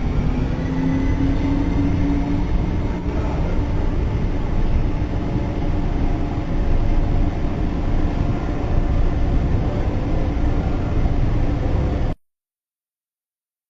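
Subway train car in motion: a steady, loud rumble of the car and its wheels on the rails, with a faint whine rising slightly in pitch in the first few seconds. It cuts off suddenly about twelve seconds in.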